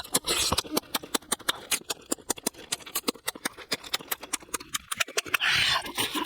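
A person eating chicken close to the microphone: rapid, irregular wet chewing and lip-smacking clicks, with a short noisy burst soon after the start and again near the end.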